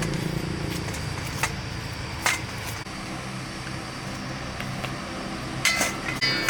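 Steady low mechanical hum under a few sharp clicks of metal tools or parts being handled, with a short ringing metal clink near the end.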